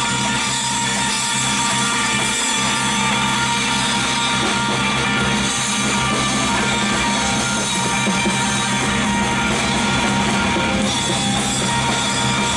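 Live band playing an instrumental passage with drums, steady and loud, with no singing.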